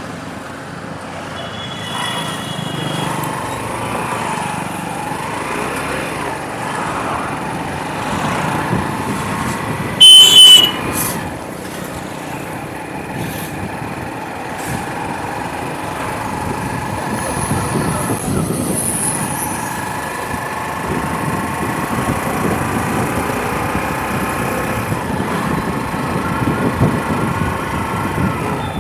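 Motorbike engine running while riding, with road and wind noise, its pitch drifting up and down with speed. A loud horn honks twice in quick succession about ten seconds in.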